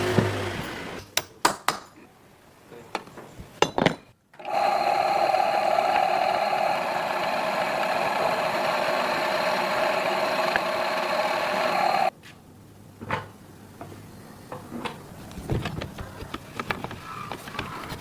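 A power tool's motor runs steadily for about eight seconds, starting and stopping abruptly. Before and after it come scattered clicks and knocks of tools and wood being handled.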